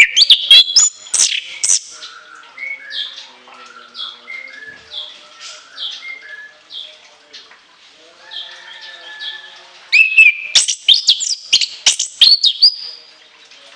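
Chestnut-capped thrush (anis kembang) singing: loud bursts of shrill, rapid high whistled notes at the start and again about ten seconds in, with a quieter run of short, varied phrases between them.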